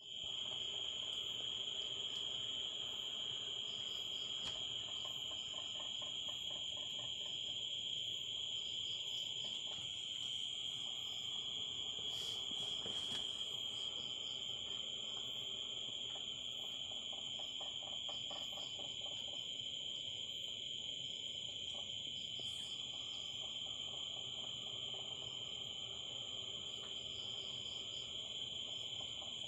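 Steady, high-pitched insect chorus, crickets trilling without a break, with a few faint clicks.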